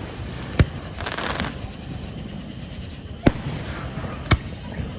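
Aerial fireworks bursting: three sharp bangs spread across the few seconds, with a half-second crackling burst about a second in.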